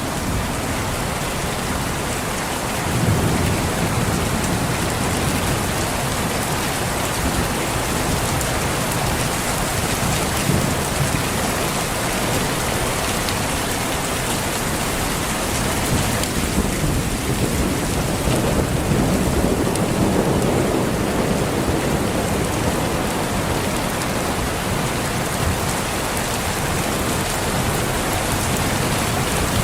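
Steady heavy rainfall on foliage, with low rolls of thunder swelling about three seconds in and again past the middle.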